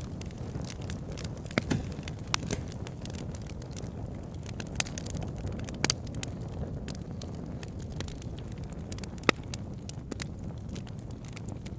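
Wood fire burning in a fireplace: a steady low rumble of flames with scattered sharp crackles and pops, the loudest a little after one and a half seconds, near six seconds and a little after nine seconds.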